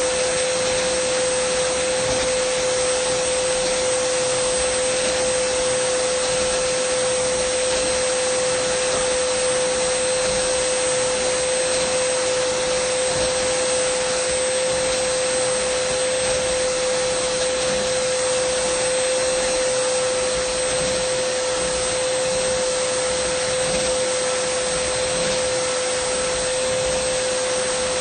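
Dyson vacuum cleaner running steadily, a continuous rushing hiss with a steady motor whine.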